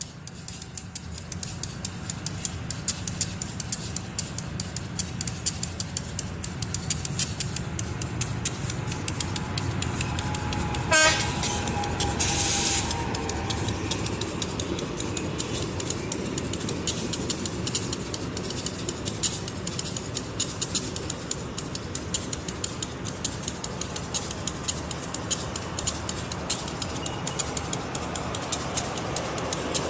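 Pariaman Express passenger train running through the station, with a steady rumble and rapid clicking of wheels over the rails. About twelve seconds in there is a short, loud burst of hiss.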